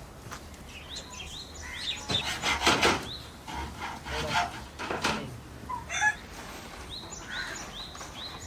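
Small birds chirping in a run of short, quick high chirps, with louder harsh noisy bursts about two seconds in and again about five seconds in.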